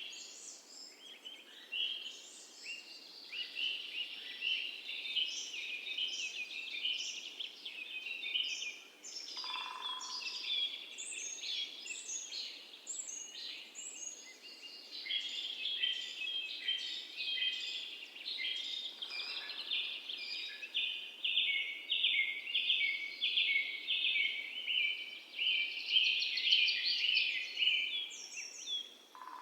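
A chorus of small birds chirping and singing continuously, many short high notes overlapping, with a single lower whistled note about ten seconds in and again near the end.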